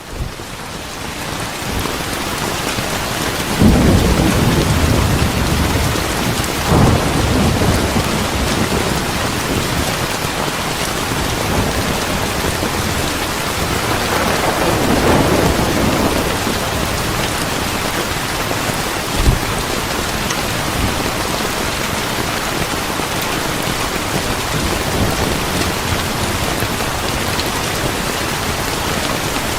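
Steady heavy rain, fading up over the first couple of seconds, with thunder: a sudden loud rumble about four seconds in, another near seven seconds, a longer roll around the middle, and a short sharp clap about nineteen seconds in.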